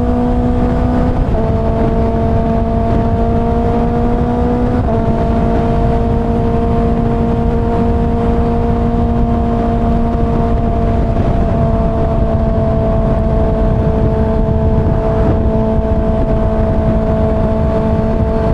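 Kawasaki ZX-6R inline-four engine pulling on the freeway. Its pitch drops at two upshifts, about a second and five seconds in, then holds steady at cruising speed under a heavy rush of wind noise.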